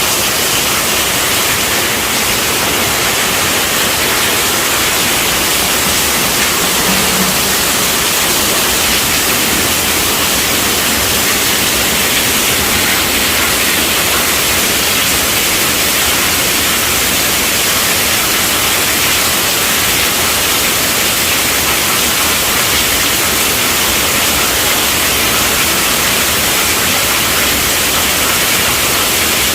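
Heavy rain drumming steadily on a tent roof, a dense, even hiss with no breaks.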